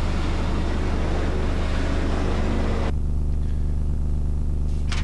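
Rally car engine running amid a dense noisy rush, cut off abruptly about three seconds in, leaving a steady low hum.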